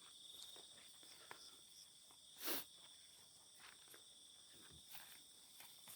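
Faint night chorus of crickets trilling steadily at several high pitches at once, with one short, louder noise about two and a half seconds in.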